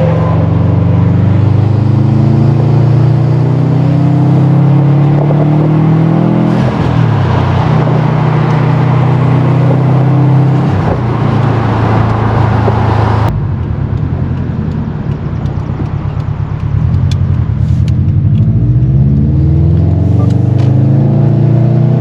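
Subaru WRX STI's turbocharged flat-four engine, tuned for E85, accelerating: its note climbs in pitch and drops back twice at gear changes. About three-fifths of the way in, the sound suddenly goes duller and quieter for a few seconds before the engine climbs in pitch again.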